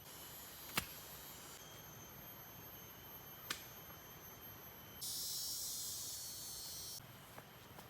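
Quiet tropical forest ambience with a steady high insect trill, two sharp clicks about three seconds apart, and a louder high buzz lasting about two seconds past the middle.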